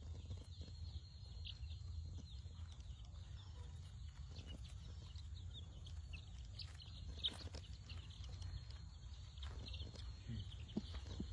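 A brood of young chicks peeping, many short high chirps overlapping continuously, over a steady low hum, with a few faint knocks.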